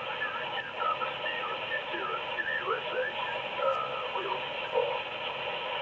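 CB radio receiver hiss with a weak, wavering voice buried in the static: a distant station coming in over skip.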